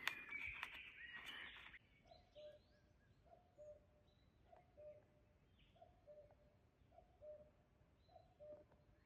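Crunching rustle for the first couple of seconds, then a faint bird call: two short notes, the second lower, repeated about once a second, with a few faint higher chirps.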